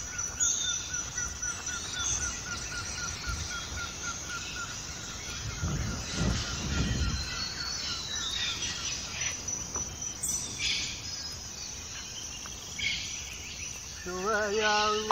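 Insects and birds in sunny grassland: a steady high insect buzz throughout, with a rapid pulsed call over the first few seconds. A few short snaps or clicks come later, and a man's voice holds a note near the end.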